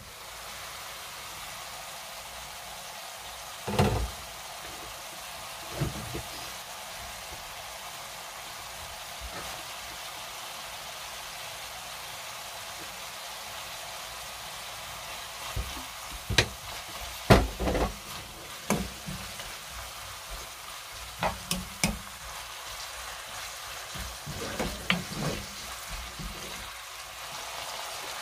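Bracken fern sizzling steadily as it stir-fries in a frying pan, with sharp knocks and scrapes of a wooden spoon stirring against the pan, a couple early and many more in the second half.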